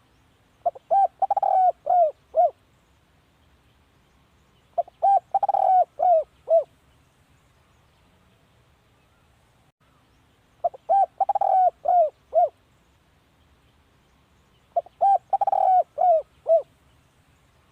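Spotted dove cooing: four calls about four to six seconds apart, each a quick run of coos that ends in two or three spaced, separate coos.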